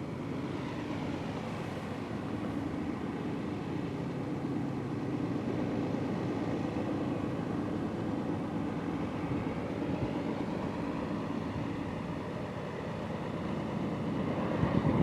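Diesel locomotives of an approaching freight train running, a steady drone that grows louder near the end.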